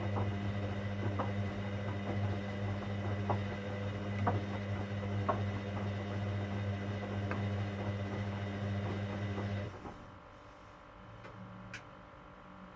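Hoover Dynamic Next washing machine running with a steady low hum and light clicks, which cuts off abruptly about ten seconds in; a single sharp click follows near the end.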